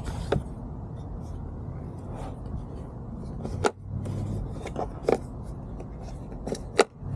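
Small cordless vacuum running inside a car, with sharp clicks and knocks a few times as the nozzle bumps against the interior.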